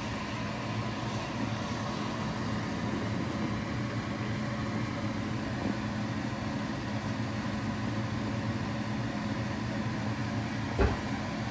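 Cornmeal-coated okra frying in hot grease: a steady sizzle over a low steady hum, with a single knock near the end.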